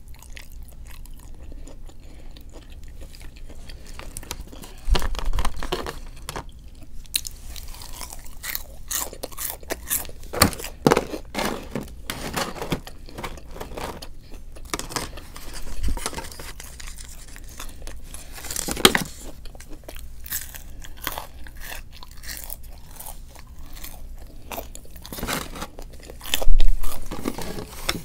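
A person eating close to the microphone: wet chewing with crisp crunches and bites, in short irregular bursts, the loudest near the end.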